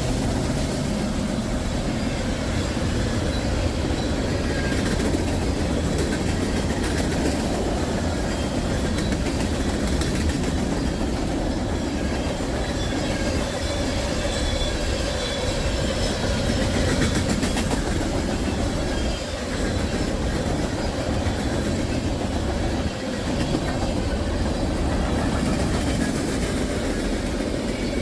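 A freight train's tank cars rolling past close by: a steady rumble of steel wheels on rail with faint wheel squeal.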